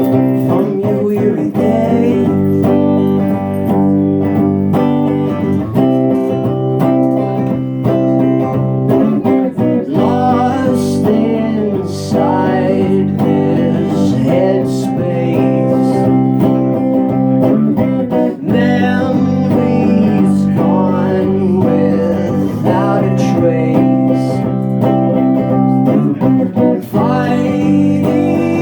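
Live guitar music: held guitar chords ringing under a gliding melody line, part of a song performance.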